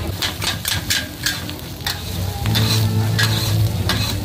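Food sizzling in a hot pan while being stirred, with a run of sharp clicks and scrapes. A low steady hum comes in about two and a half seconds in.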